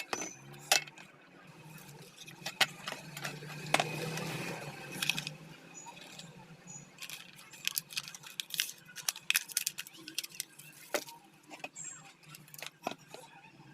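Irregular clicks, taps and rattles of small metal parts and hand tools being handled while a cutter machine is worked on.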